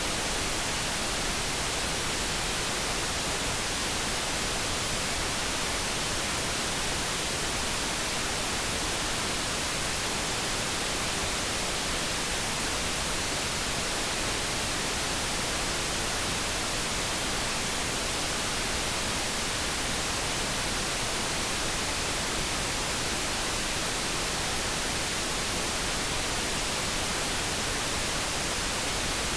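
Steady light brown noise: an even, unchanging hiss, with no kettle tone or other event in it.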